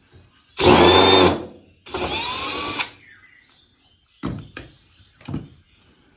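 Cordless electric screwdriver backing out screws: two short runs of about a second each, the motor whine rising as it spins up, followed by a few light knocks.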